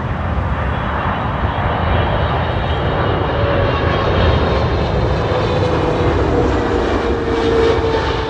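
Boeing 777-200LR's GE90 jet engines running loud and steady as the airliner passes close on arrival, with an engine tone that slides slowly down in pitch over the second half as it goes by.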